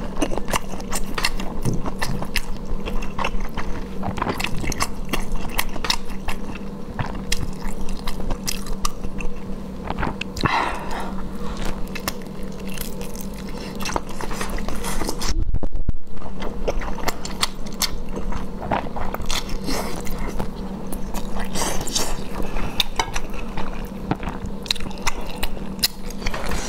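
Close-miked eating sounds: wet chewing and biting into a soft roll filled with glass noodles and carrot, with many small, sharp mouth clicks and smacks throughout.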